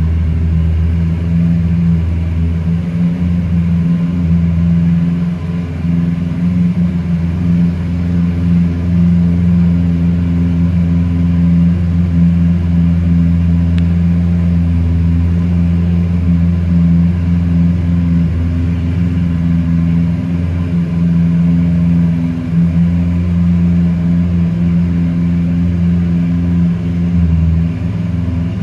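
Lamborghini Aventador SV's 6.5-litre V12 idling steadily.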